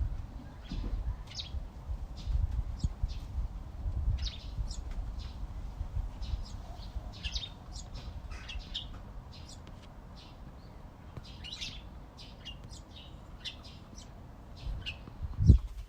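Backyard songbirds chirping in many short, quick notes, over a low rumble. A single loud low thump comes near the end.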